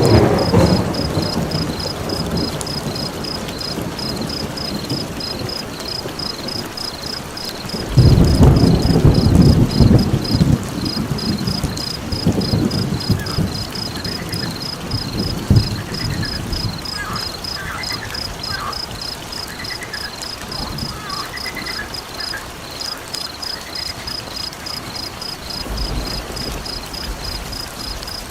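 Nature ambience: deep thunder rumbles at the start and swells again about eight seconds in. Throughout, insects chirp in a rapid, even rhythm, and a few frog calls come in the middle.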